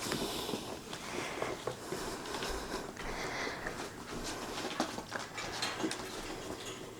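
Faint rustling with scattered light clicks and taps, typical of cockatiels and hands moving about a wire bird cage.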